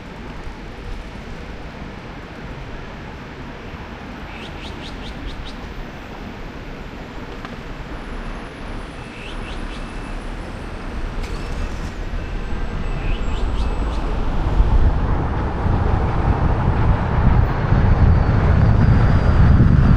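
Street traffic and road noise picked up by a camera mounted on a moving car's roof, with rumble and wind on the microphone growing steadily louder over the last several seconds. A few faint high chirps sound in the first half.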